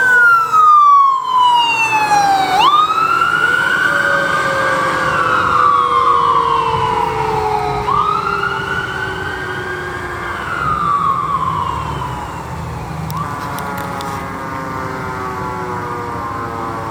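Emergency vehicle siren on a slow wail, rising and falling in long sweeps about every five seconds, with a second, lower siren tone sliding slowly down beneath it. Near the end the wail fades and a different siren tone takes over.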